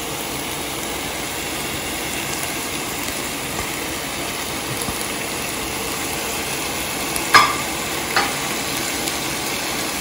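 Thin-sliced beef and browned onions sizzling steadily in a cast-iron pan. Late on come two sharp knocks a little under a second apart, the first the loudest.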